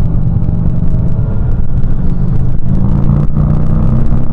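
Triumph Street Triple RS's three-cylinder engine running steadily at a cruising speed of about 80 km/h, with wind and road noise.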